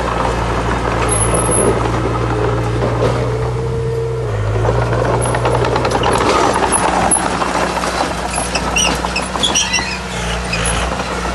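Diesel engine of heavy earthmoving equipment running steadily, its pitch shifting about four seconds in. A rattling clatter runs through the second half.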